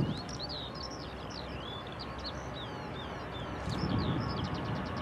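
Small songbirds chirping and singing in quick rising and falling notes, over a low background rumble that swells briefly about four seconds in.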